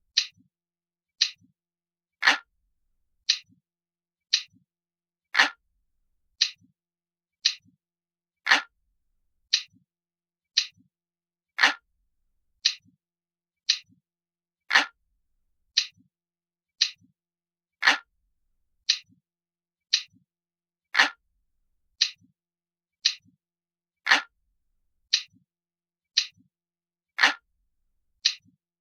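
Analog clock ticking steadily, about one sharp tick a second, some ticks fuller and lower than others.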